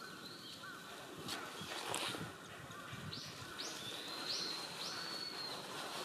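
Small birds calling: a few short whistled notes early on, then a series of four sharp high notes about half a second apart in the second half, trailing into a held high tone. Two brief clicks come between them, around the first and second seconds.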